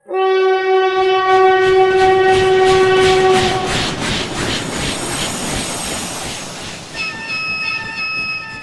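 Train horn sounding one long blast for about three and a half seconds. It is followed by the rattle and clatter of a train running on the track. A second, higher horn tone sounds near the end.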